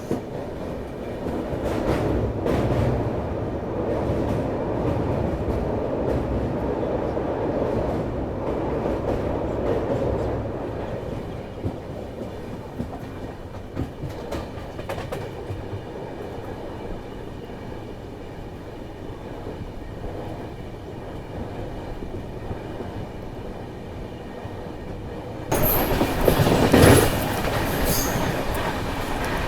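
Passenger train running along the track: a steady rumble of wheels on rail with some clickety-clack, louder for the first ten seconds and then easing. Near the end a much louder, hissing rush starts abruptly.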